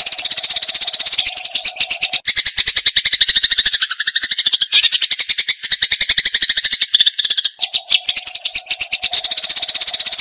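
Eurasian tree sparrows (burung gereja) chattering in a fight: a dense, unbroken run of quick, harsh chirps, many to the second. From about two seconds in until about seven and a half seconds the chatter changes to a fuller, lower-reaching run before the first pattern returns.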